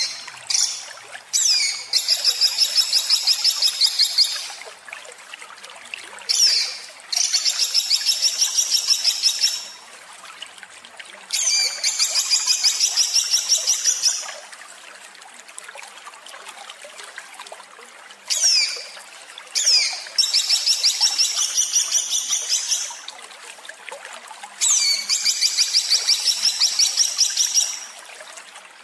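A songbird giving harsh, rapid-fire 'shot' phrases, five times. Each phrase opens with one or two quick downward-sweeping notes and runs into a fast, even, buzzy rattle lasting two to four seconds. A faint trickle of water sounds underneath.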